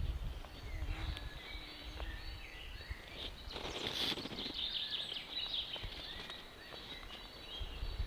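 Woodland birds singing: many short, high chirps and trills from several birds, over a low rumble, with a brief rustle about four seconds in.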